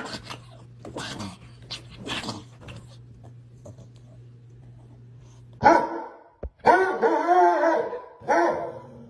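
A dog gives three drawn-out, wavering whining barks, the middle one the longest, after a few seconds of short noises over a low steady hum.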